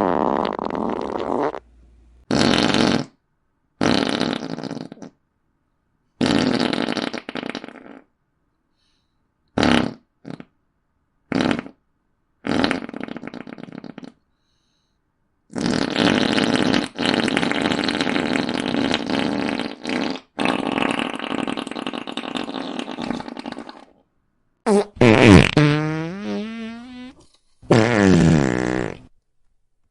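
A string of about a dozen fart sound effects, one after another with short silent gaps, short blasts mixed with longer ones. One long, ragged fart lasts about eight seconds in the middle. Near the end comes a squeakier one whose pitch falls.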